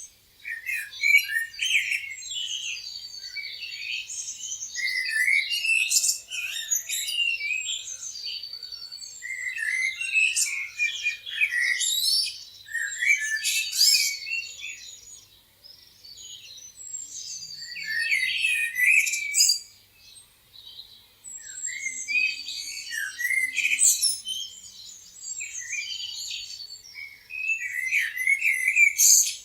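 Several songbirds chirping and singing at once: a dense chorus of quick high chirps, trills and whistles, with a couple of short lulls.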